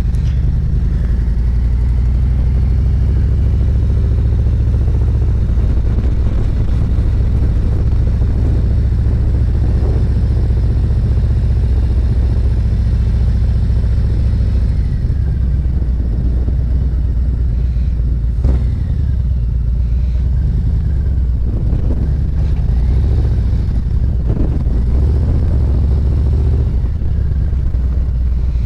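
A motorcycle riding at low speed, its engine running steadily under heavy wind rumble on the microphone.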